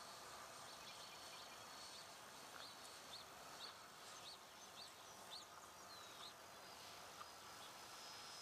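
Near silence, with a bird giving a series of about six short, high chirps a little over half a second apart through the middle.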